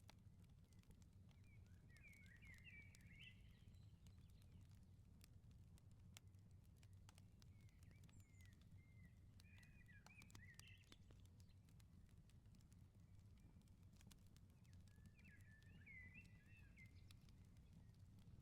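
Faint firepit fire crackling with scattered small pops over a steady low rumble. A small songbird sings three short warbling phrases, a few seconds apart.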